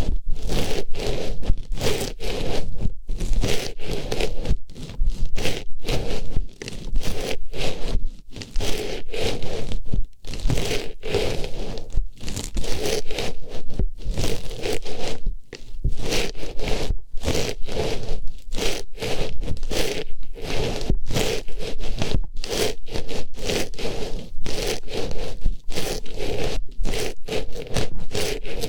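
Artificial flower pushed into and rubbed around the ear of a binaural microphone, making loud scratchy rustling and scraping strokes in quick, irregular succession.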